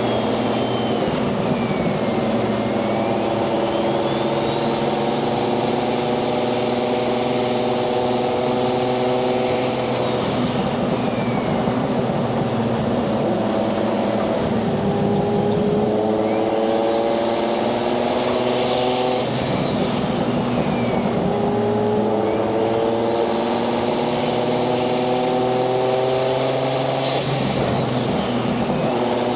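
A Nissan 240SX's swapped 1JZ-GTE VVTi turbocharged inline-six running under load. The engine note climbs steadily and drops back with each gear change. A high turbo whistle rises with each pull and falls away as it ends, three times, the last falling off sharply near the end.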